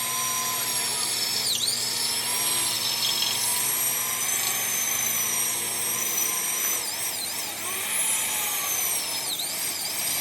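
Handheld electric power tool running at a steady high whine in a metalworking shop, its pitch dipping sharply twice as the motor is briefly loaded.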